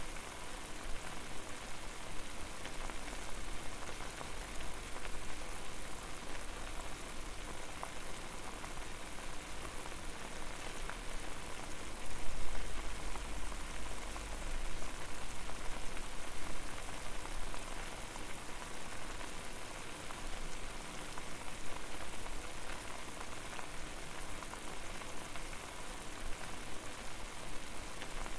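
Water boiling hard in a pot over a fire: a steady dense crackle of bursting bubbles over a low rumble, swelling louder for a moment about twelve seconds in.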